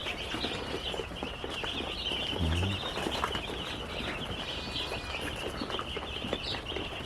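A flock of young broiler chicks peeping all at once, a dense steady chorus of high chirps, with a short low thud about two and a half seconds in.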